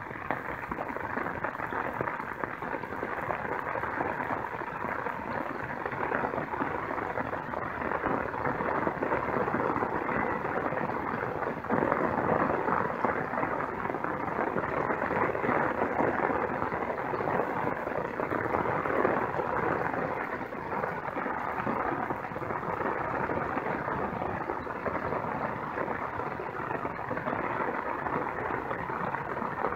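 Steady patter and splashing of water, a dense crackling noise with no pauses, a little louder through the middle.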